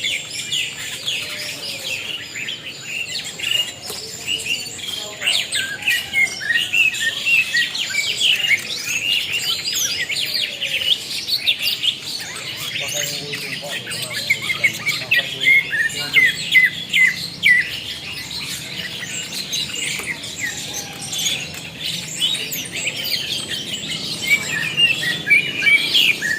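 Birds chirping: many quick, overlapping chirps and short trills, high-pitched and continuous.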